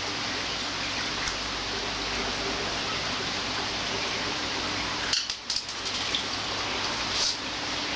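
Steady hiss with a few light clicks and clinks about five seconds in and again near seven seconds, typical of hardware being handled while fitting parts to the air compressor.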